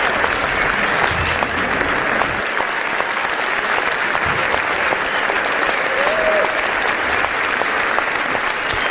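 Steady, dense applause: many hands clapping at once, running on without a break.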